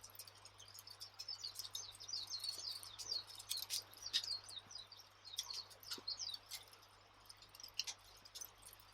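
Wood fire crackling: irregular, quick sharp pops and snaps, faint overall, over a soft hiss and a steady low hum.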